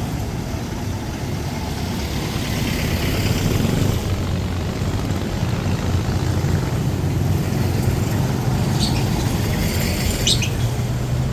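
Street traffic: a motor vehicle engine running steadily with a low rumble, and a couple of short high chirps about nine and ten seconds in.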